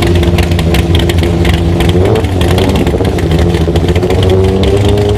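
High-powered drag-racing engine running loudly at low revs, a deep rumble under a rough crackling exhaust. About two seconds in its pitch swings up and back down, then climbs slowly.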